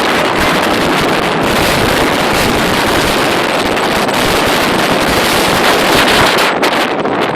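Wind rushing over the microphone of a phone filming while riding a bicycle: a loud, steady rush with no break.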